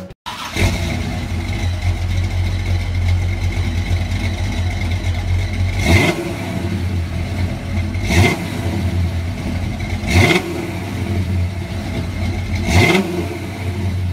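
Car engine idling with a steady low rumble, revved sharply four times.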